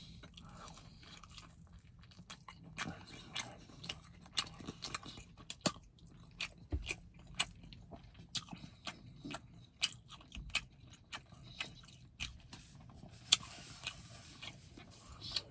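A person chewing a mouthful of chicken close to the microphone: many irregular wet mouth clicks and smacks.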